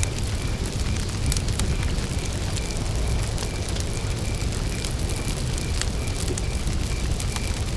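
Campfire burning, with wood crackling in sharp snaps and pops over a low rumble of the flames. Behind it a short high chirp repeats steadily about twice a second.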